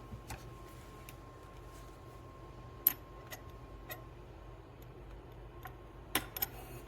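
A few short, light clicks and taps: a coffee cup and a thermometer being handled to check the espresso's temperature. The strongest click comes about three seconds in, and a small cluster follows near the end.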